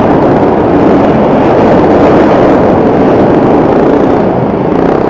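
Bajaj Rouser 180 (Pulsar 180) motorcycle's single-cylinder engine running under way, mixed with heavy wind rush on the rider's microphone. About four seconds in the rush eases and a steadier engine hum comes through.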